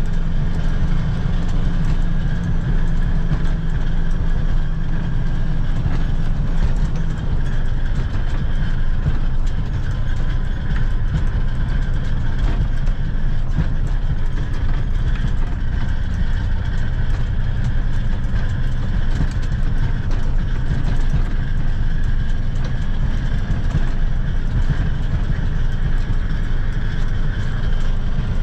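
Pickup truck driving on a dry, freshly graded dirt road, heard from inside the cab: steady engine and tyre rumble with small clicks and rattles throughout. The engine's low hum changes about seven seconds in.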